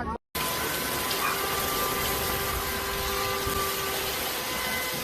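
Steady rushing of water, an even noise with a few faint steady tones underneath.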